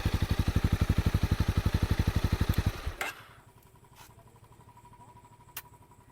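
Honda CB300R's single-cylinder engine running at a steady idle with an even, fast beat, then shut off about halfway through with a knock, leaving a few faint clicks.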